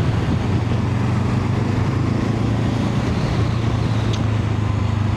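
Honda CL500's 471 cc parallel-twin engine running at a steady pace while riding, a constant low hum under steady wind and road noise.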